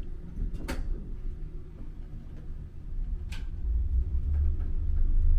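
Low rumble of a high-speed lift, growing louder about three seconds in, with two short sharp clicks.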